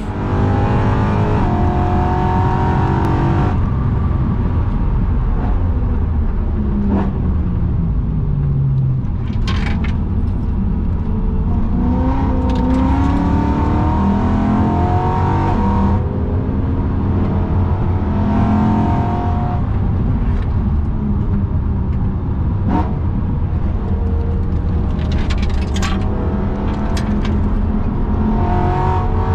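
BMW E92 M3's 4.0-litre V8, fitted with aftermarket downpipes, heard from inside the cabin while driven hard on track. Its pitch climbs and drops again and again as it accelerates and lifts, with a few short sharp cracks along the way.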